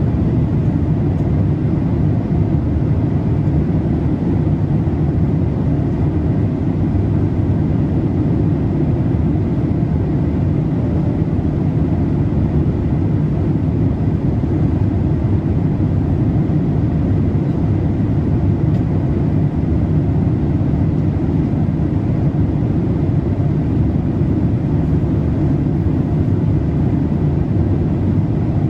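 Steady in-flight cabin noise of a Boeing 787-8 airliner: a constant low rumble of airflow and engines, with no changes in level.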